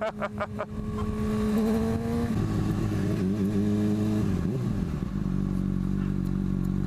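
Motorcycle engine running while ridden. Its note holds steady, drops about two seconds in, dips again a little after the middle, then settles into a lower steady note.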